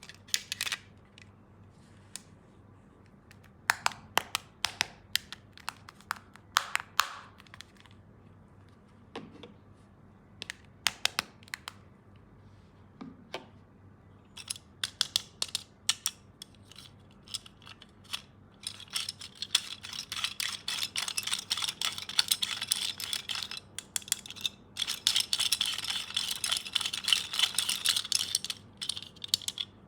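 Plastic toy tools and packaging being handled. Scattered sharp clicks and taps come first; from about halfway there is a dense, rapid crackle, like packaging being worked or cut, which stops just before the end.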